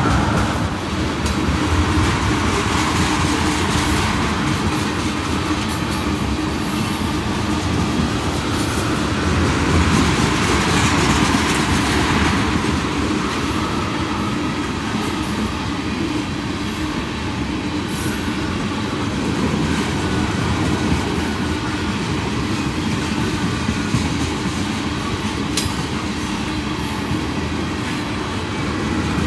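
Freight train of railroad tank cars rolling past: a steady rumble of steel wheels on rail with a low steady hum, and a few sharp clicks as wheels cross rail joints.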